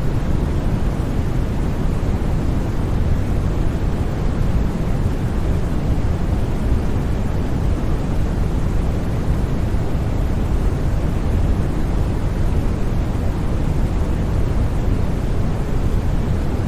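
Steady, unchanging white noise from a sleep-sound track, its energy weighted toward the low end, with no music or other sounds in it.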